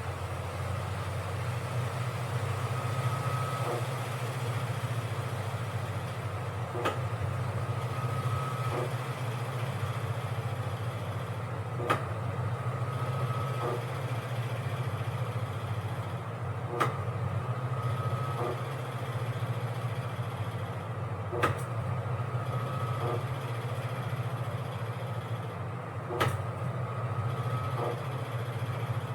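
Washing machine running: a steady low motor hum, with a sharp click about every five seconds, each followed about a second later by a short steady whine lasting a second or so.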